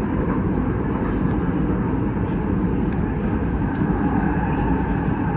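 Cabin running noise of a CRRC Changchun-built electric multiple unit, a steady low rumble as the train pulls into a station platform.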